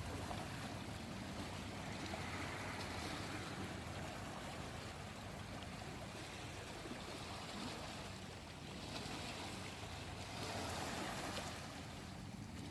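Small sea waves lapping and washing on the shore of the Seto Inland Sea, swelling about two seconds in and again near the end, over a steady low hum.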